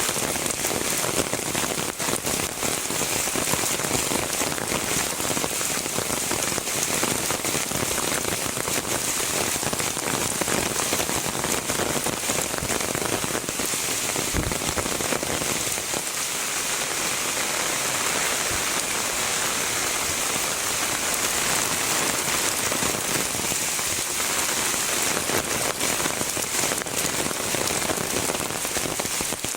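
Heavy rain falling steadily, with many individual drops ticking against nearby surfaces.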